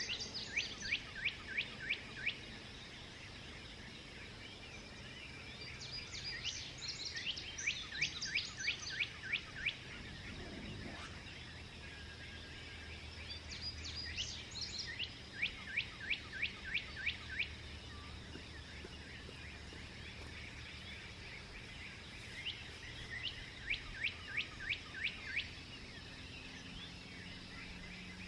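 A songbird singing the same song over and over, a quick run of sharp repeated notes, about four times with pauses of a few seconds between. Under it runs a steady low background hum.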